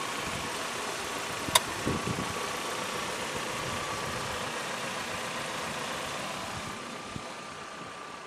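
GAZ Sobol's ZMZ-409 inline-four engine idling steadily, with a noise from the cylinder head that the mechanics take for the camshafts jumping in their bearing beds, amid oil pressure near zero. A single sharp click about a second and a half in.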